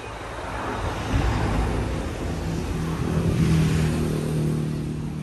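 A motor vehicle passing by, its engine sound swelling to a peak about three and a half seconds in and then fading.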